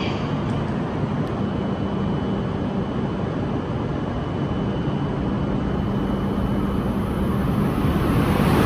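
Steady low hum at a Tohoku Shinkansen platform, then near the end the rising rush of an approaching shinkansen through train, a coupled E6 and E5 set, swelling in loudness as it nears at speed.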